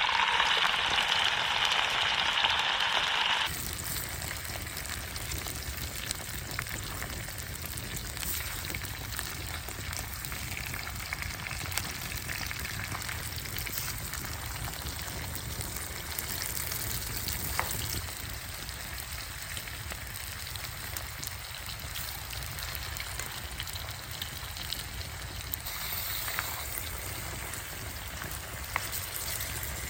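Food frying and sizzling over a campfire, a steady hiss with occasional sharp crackles. The first few seconds hold a louder, brighter hiss.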